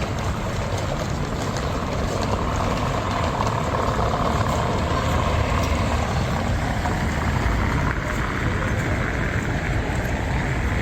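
City street ambience with a steady low rumble of traffic, swelling as a vehicle goes by a few seconds in.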